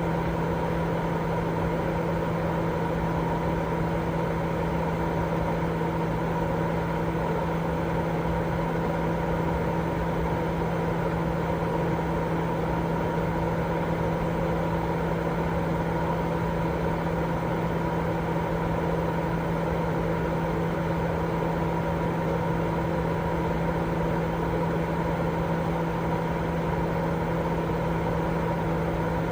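Continuous white noise for baby sleep, perfectly steady and unchanging, weighted toward the low end, with a constant low hum and a fainter steady tone above it.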